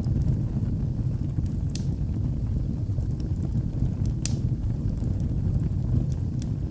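Wood fire burning in a fireplace: a steady low rumble of flames with scattered sharp crackles and pops, the loudest about two seconds and four seconds in.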